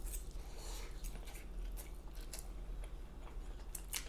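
Close-miked mouth sounds of someone chewing food: soft, irregular wet clicks and smacks, with a sharper one near the end, over a faint steady low hum.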